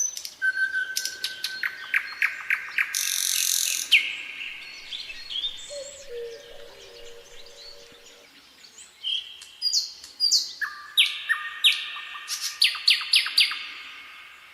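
Several songbirds chirping and singing at once: quick trills of repeated clicking notes, short whistled phrases and high chirps overlapping, with a brief harsh hiss about three seconds in.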